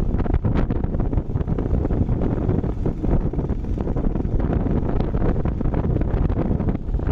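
Wind buffeting the microphone of a moving motorcycle: a loud, fluttering rumble.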